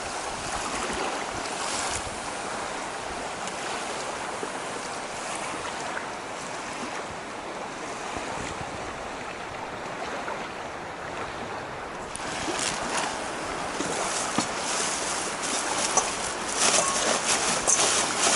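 Steady rush of river water around a raft on the Colorado River, with splashing and spattering that picks up about twelve seconds in and grows louder near the end.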